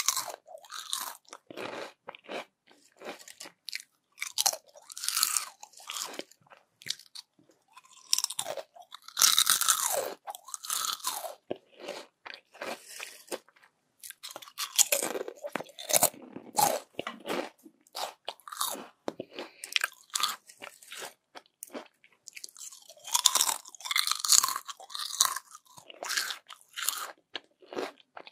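Close-miked crispy yam chips being bitten and chewed: a run of sharp, dry crunches, loudest in two bursts of crunching about nine seconds in and again around twenty-three seconds in.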